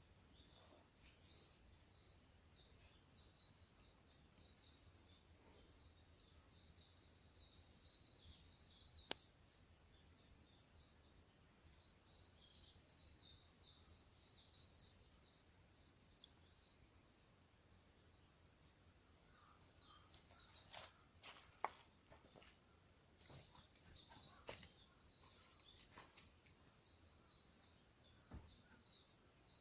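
Faint crackling of a wood bonfire with a few sharp pops, under bursts of high, rapid twittering that is most likely small birds.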